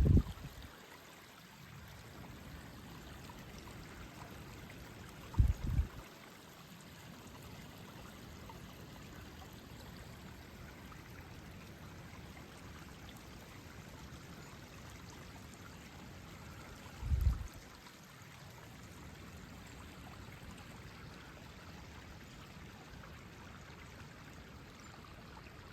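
Creek water running steadily after rain, an even rushing flow. Three short low thumps break through it, at the very start, about five seconds in and about seventeen seconds in.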